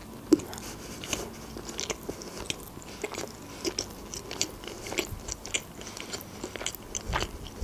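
Chewing a mouthful of fried sushi roll with the mouth closed: irregular wet smacks and small crunchy clicks throughout, with one louder click about a third of a second in.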